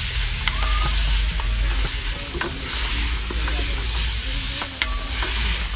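Chopped vegetables (scallion, onion, carrot, bell pepper, tomato) sautéing in a pot: a steady sizzle, with a spoon stirring and clicking against the pot several times.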